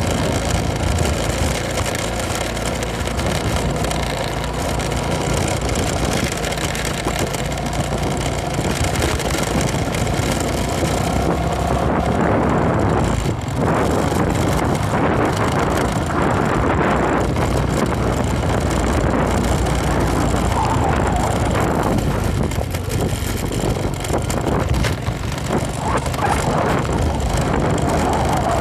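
Motorcycle engine running while riding, mixed with wind noise on the microphone.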